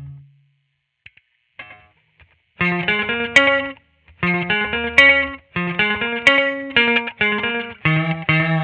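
Squier Vintage Modified Jaguar electric guitar played through an amp with effects: a pause of about two seconds with a few faint notes, then a run of short, separated chords with brief gaps between them.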